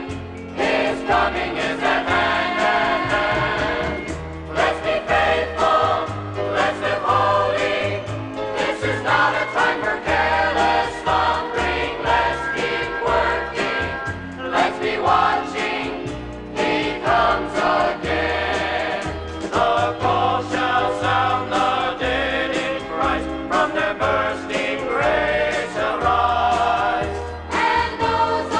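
Gospel music: a choir singing over instrumental accompaniment with a bass line that steps from note to note.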